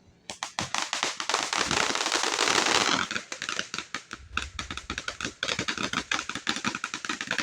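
A large consumer firework going off: a dense hissing, crackling spray that starts sharply, then a rapid, uneven string of sharp crackling pops.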